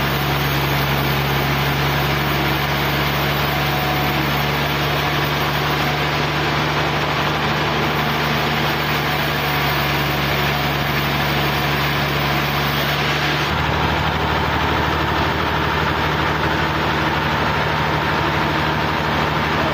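A sawmill's engine running steadily. Its sound shifts about two-thirds of the way through, and a new higher tone joins in.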